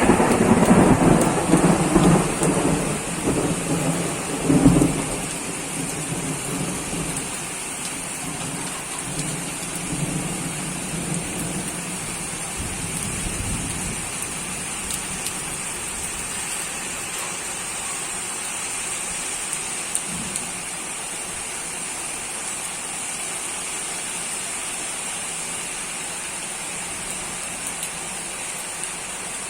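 Steady rain falling, with a long roll of thunder over the first five seconds or so that dies away, leaving the rain alone.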